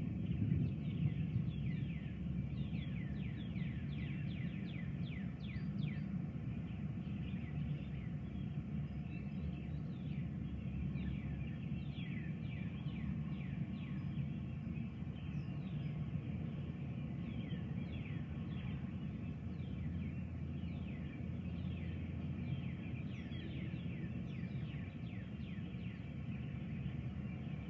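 Birds calling in quick runs of short falling chirps, over a steady low rumble.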